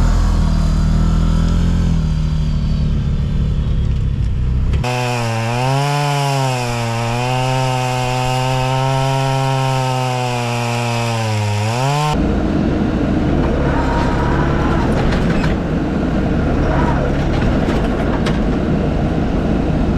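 Three cut-together clips of machinery: first a low engine rumble, then a gas chainsaw running steadily at high revs for several seconds, then a rougher, noisier engine sound to the end.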